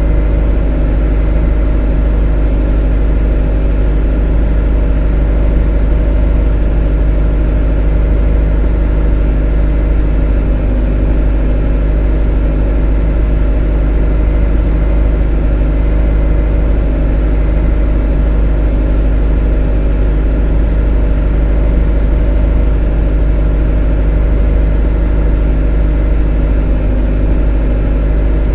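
A motor running at a constant speed: a loud, unchanging deep drone with a steady hum of tones above it.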